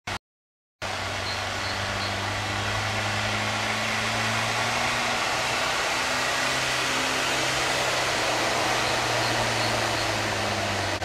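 Off-road 4x4's engine running steadily under a strong, even hiss, its pitch shifting slightly partway through. The sound cuts out briefly just after the start.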